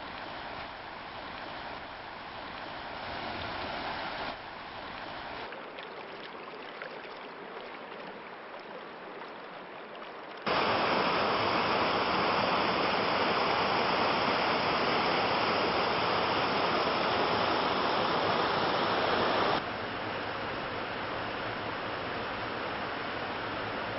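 Rushing water noise, steady but cut between several takes, with a markedly louder stretch from about ten to twenty seconds in.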